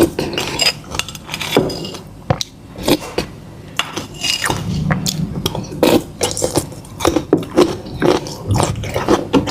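Close-miked eating sounds: irregular bites and chewing with wet clicks and crackles, and occasional clinks of utensils against dishes.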